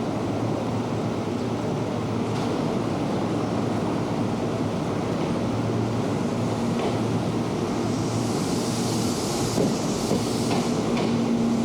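Electric commuter train at a station platform, a steady rumble with a low hum. A hiss comes in about eight seconds in, and a few sharp clicks follow near the end.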